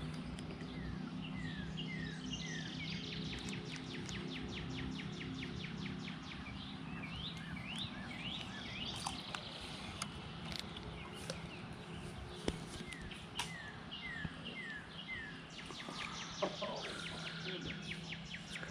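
Small birds chirping in short falling calls, often three in a row, over a steady low hum and runs of fast, even ticking.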